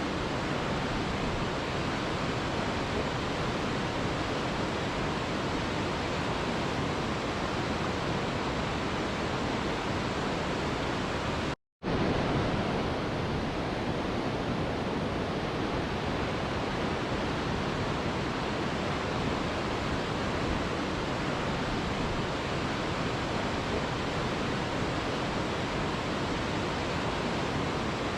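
Mountain river rushing, a steady, even roar of water. It drops out to silence for a split second about halfway through, then carries on unchanged.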